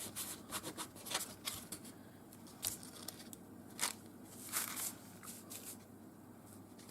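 Faint scattered taps and rustles of hand crafting: a freshly inked craft foam stamp being pressed onto paper and lifted off.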